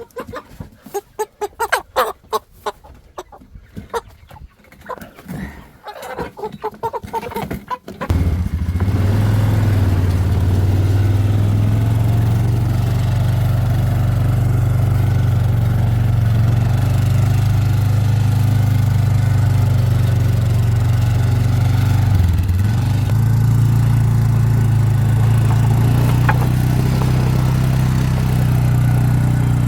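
Chickens clucking and squawking for the first several seconds. About eight seconds in, a loud small engine cuts in and runs at a steady pitch, dipping briefly about two-thirds of the way through.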